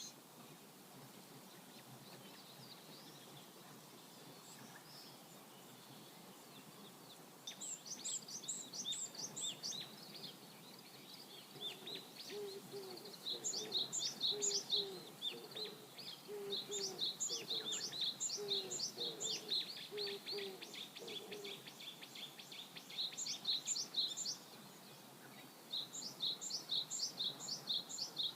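Songbirds singing bursts of rapid, high repeated notes over the steady low rush of a flowing river. In the middle a second, much lower call repeats in short notes alongside them.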